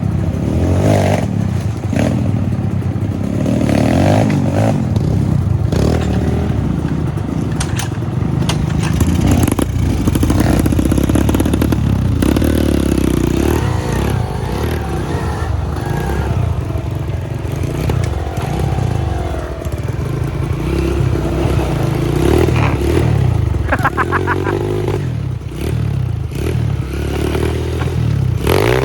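Trail motorcycle engine revving up and down at low speed over rough ground, with the clatter and scrape of the bike working over rocks.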